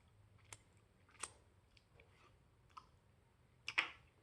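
A handful of short, sharp clicks and taps at uneven intervals, the loudest a close pair near the end.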